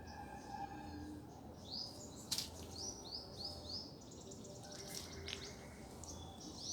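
Small birds chirping in clusters of short, quick high notes, with one sharp click a little over two seconds in.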